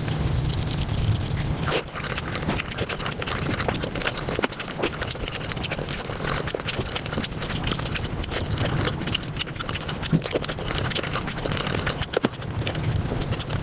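Close-miked eating sounds sped up five times: a rapid, dense run of chewing clicks, wet smacks and crunches.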